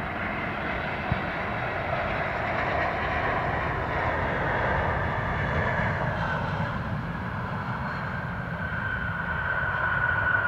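Frontier Airlines jet airliner landing, its engines giving a steady rushing noise with a high whine that grows a little louder near the end.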